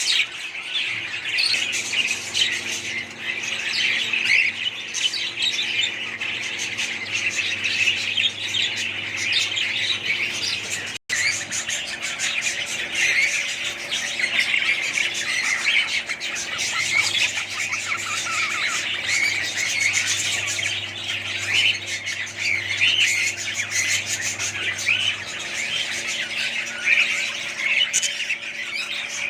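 A flock of budgerigars chattering and squawking continuously, with dense overlapping chirps over a steady low hum. The sound breaks off for an instant about eleven seconds in.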